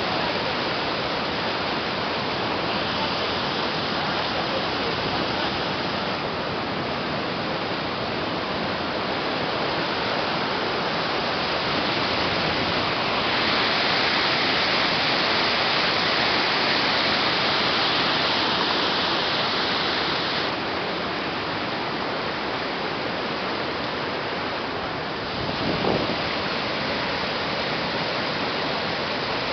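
Waterfall rushing: a steady, loud wash of falling water, brighter for several seconds in the middle, with one short bump near the end.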